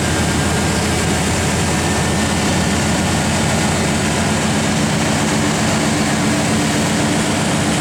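Chevrolet 350 small-block V8 in an old Chevy truck running steadily, just revived after sitting unstarted for about eight years; the owner says it is sounding good.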